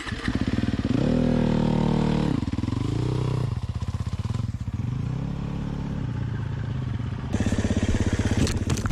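Four-stroke single-cylinder dirt bike engine revved hard, with a rise and fall about a second in and a shorter rev near three seconds. It then runs more steadily and picks up again near the end, with a couple of sharp clatters. The revving goes with the gearbox being in neutral, so the bike is not driving.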